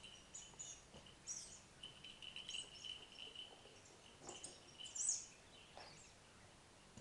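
Faint, scattered high chirps and tweets of a small bird, one louder chirp about five seconds in, over a faint broken high whine.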